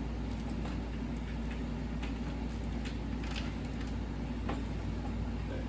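Steady low hum with scattered light clicks and taps from small parts being handled.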